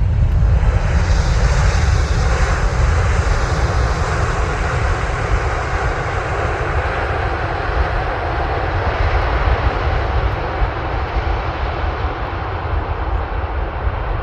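Emirates SkyCargo Boeing 777 freighter's twin GE90 turbofans passing close by on landing, a loud jet roar with deep rumble. The higher part of the roar peaks about one to three seconds in, and the whole sound then slowly fades as the aircraft moves away.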